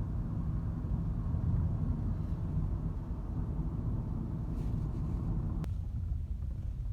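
Wind buffeting a phone microphone outdoors: a steady, uneven low rumble with a single faint click about two-thirds of the way through.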